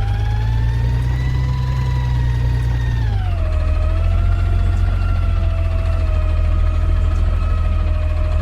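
Side-loader garbage truck running with a low engine rumble and a high whine from its hydraulics while it works a recycling pickup. Engine and whine are raised at first, then drop back about three seconds in and hold steady.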